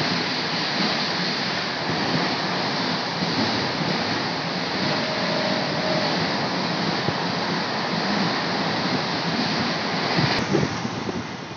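Passenger coaches of an express train running past at high speed: a steady noise of wheels on rail and rushing air. The noise falls away near the end as the last coaches pass.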